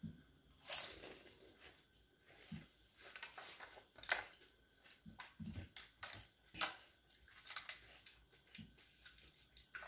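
Quiet chewing with scattered sharp crunches as crisp, filled pani puri shells are bitten and eaten whole, with a few light clicks of a spoon on a ceramic plate.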